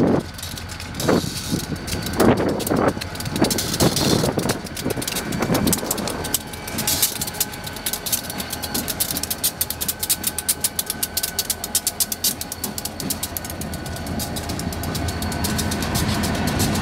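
Diesel freight locomotives passing slowly at close range, followed by freight cars, their wheels clicking and clattering over the rails, with a faint steady whine. Wind buffets the microphone in the first few seconds.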